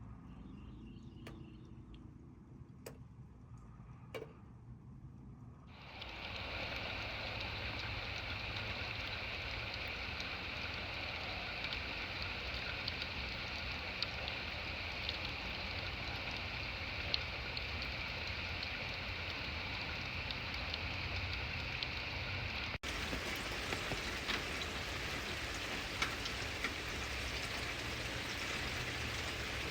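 Steady rain falling, an even hiss with scattered ticks of individual drops. It comes in suddenly about six seconds in, after a few faint clicks, and grows brighter and fuller about two-thirds of the way through.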